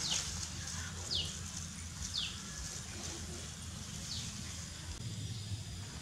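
A bird calling: four short, high chirps, each falling in pitch, spaced a second or two apart, over a steady low rumble.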